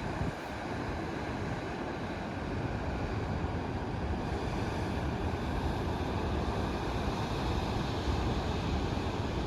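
Ocean surf washing steadily, with wind buffeting the microphone in low rumbles.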